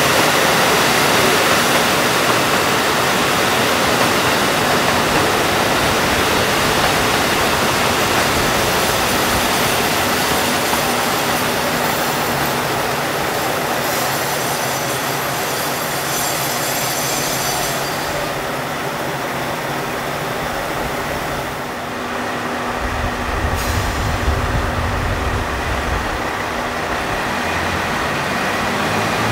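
Diesel train running at the station: a steady rush of rail and running noise with an engine drone underneath. A deep low rumble comes in about three-quarters of the way through.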